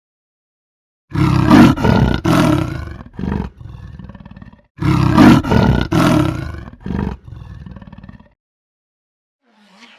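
A big cat roaring in two bouts. Each bout opens with loud full roars and tails off into a run of shorter, quieter grunts.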